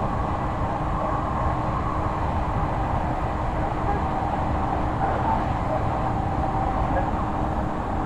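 Odakyu 3000 series electric train running steadily between stations, heard inside motor car DeHa 3213, which has totally enclosed traction motors. A constant rumble of wheels and running gear, with a faint steady hum.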